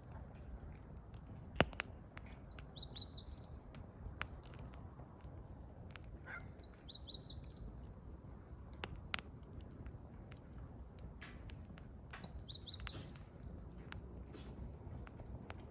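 A wood campfire crackling, with scattered sharp pops, the loudest about a second and a half in. A songbird sings a short, high, quick phrase ending on a held note, repeated four times a few seconds apart.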